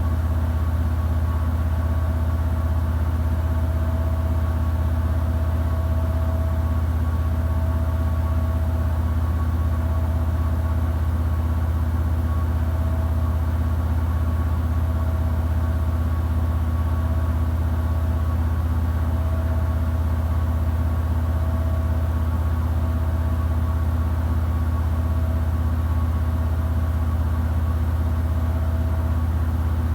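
Samsung WW90J5475FX digital inverter washing machine spinning at a steady speed: a continuous low hum with a faint higher whine that comes and goes every second or two.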